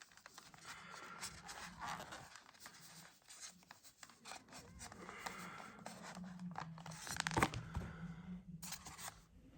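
Model locomotive packaging being handled and pulled apart: irregular rustling, crinkling and tearing with small clicks, and one sharper knock about seven seconds in. A faint low hum runs underneath.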